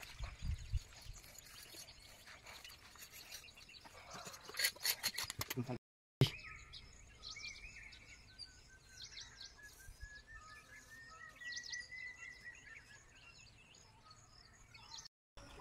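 Faint outdoor ambience with birds chirping: repeated short high chirps and one long call that slowly rises in pitch. The sound drops out briefly twice, where clips are joined.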